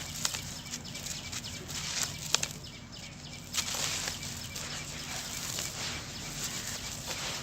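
Dried sand-cement crumbling: a few sharp cracks, the loudest about two and a half seconds in, then a steadier gritty crunching and trickling from about three and a half seconds in.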